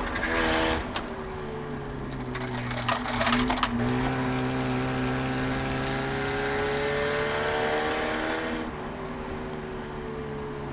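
Eagle Talon's engine heard from inside the cabin on track, climbing steadily in pitch under acceleration, then dropping abruptly near the end and falling away slowly. Bursts of rattling clatter come over the engine during the first few seconds.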